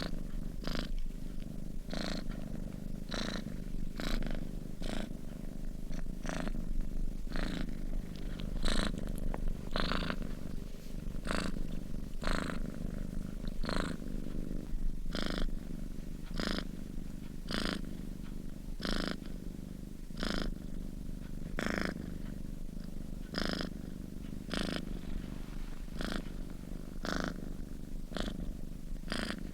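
A sleeping domestic cat purring steadily, a low rumble with a soft breathy pulse a little more than once a second as it breathes in and out.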